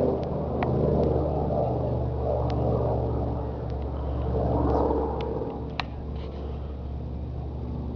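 Aircraft engine droning over a steady low hum, swelling briefly about four to five seconds in as the plane passes, with a few faint clicks.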